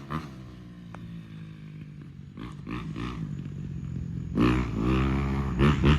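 Dirt bike engine running, with short blips of the throttle a few seconds in. A louder rev rises and falls about four and a half seconds in, and another comes near the end.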